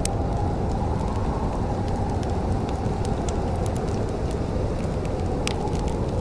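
Wood fire crackling in a fireplace, scattered sharp pops and snaps over a steady low rumble.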